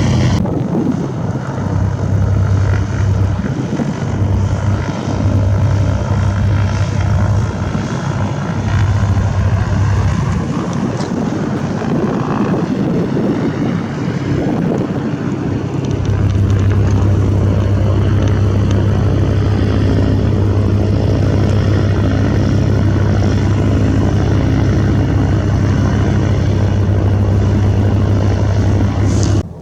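Propeller airplane engine running with a steady low drone, the propeller tone becoming steadier and slightly louder about halfway through, then cutting off abruptly near the end.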